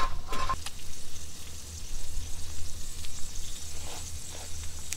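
Food sizzling in a skillet on a camp grill, a steady frying hiss.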